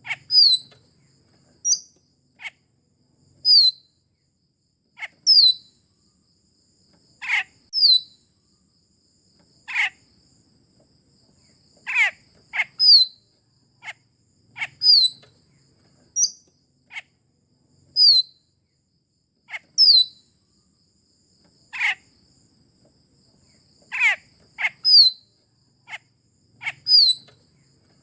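Sulawesi myna (Basilornis celebensis) lure call: short, sharp, falling call notes repeated every one to two seconds. A steady, high-pitched insect-like whine runs behind the calls and drops out now and then.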